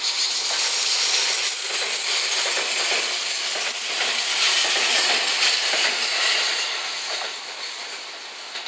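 JR West 227 series four-car electric multiple unit passing close by: a loud steady rush of steel wheels on rail with scattered clicks over the rail joints, starting suddenly and fading over the last couple of seconds.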